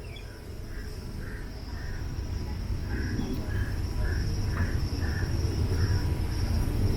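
Low rumble of the DEMU diesel train that grows steadily louder, with a bird calling over it in short repeated notes, about two a second, and a steady high insect buzz.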